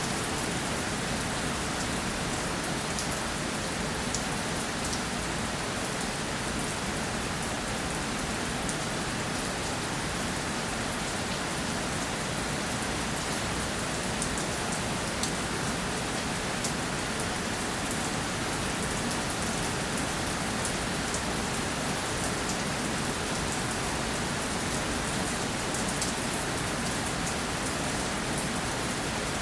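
Steady rainfall: an even hiss of rain with many small drop ticks pattering on a surface.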